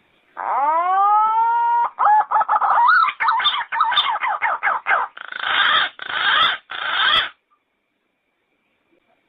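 Yellow-footed green pigeon calling: a long rising whistle, then a quick run of warbling, gliding notes, and last three harsh, hoarse notes.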